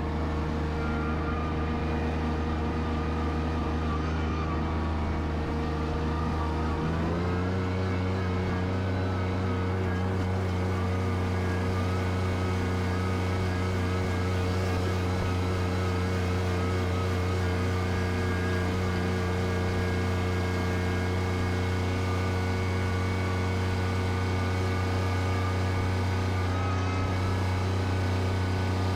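Bobcat tractor engine running steadily, stepping up to a higher speed about seven seconds in and holding there.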